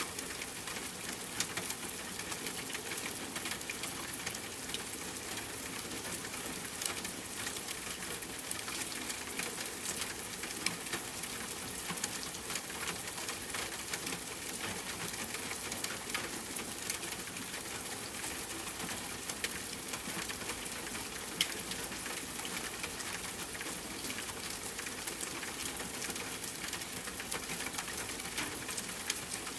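Steady rain, a continuous even hiss with many individual drops ticking close by and a few sharper drips standing out.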